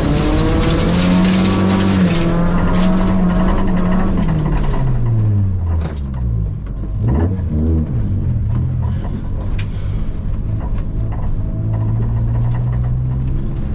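Corolla rally car engine held at high revs, then dropping away, a quick blip of the throttle about seven seconds in, and steadier lower revs to the end. A hiss with scattered clicks goes with the high revs in the first two seconds.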